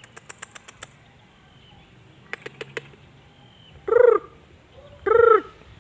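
A bird calling: three short calls about a second apart, each rising then falling in pitch, starting about four seconds in. Before them, a quick run of sharp clicks in the first second and a few more midway.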